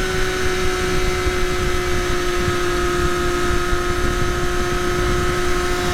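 Triumph Daytona Moto2's inline three-cylinder engine, its stock muffler replaced by a link pipe, held at a steady 7,000 rpm in third gear while riding. It makes a loud, steady drone at an even pitch, with a low rumble beneath it.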